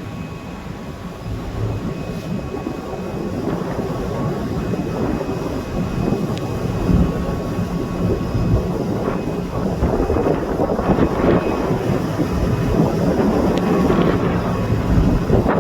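Wind buffeting the microphone over a low steady rumble, growing louder through the stretch.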